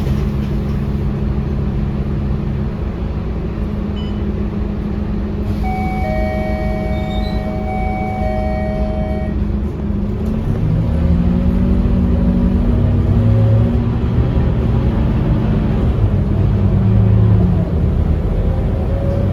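Scania K230UB bus's five-cylinder diesel engine running steadily, then pulling away about halfway through and accelerating through several gear changes, with a faint rising whine. An electronic two-note tone sounds for a few seconds just before the bus moves off.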